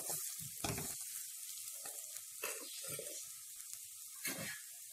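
Coarse ground masala and chopped fresh coconut sizzling in hot oil in a kadhai while being stirred, the spatula scraping across the pan a few times.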